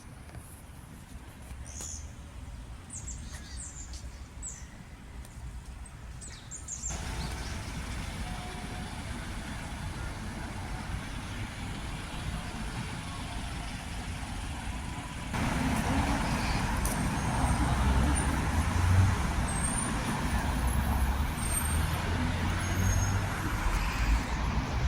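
Road traffic noise, a steady rushing hum with low rumble, that gets louder in two abrupt steps, about a quarter of the way in and just past the middle. A few short high chirps, likely birds, come before the traffic swells.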